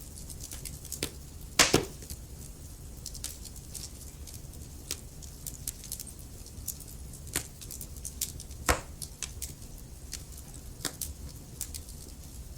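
Burning logs crackling: irregular sharp pops and snaps over a low steady rumble, with the loudest pops about one and a half seconds in and again near nine seconds.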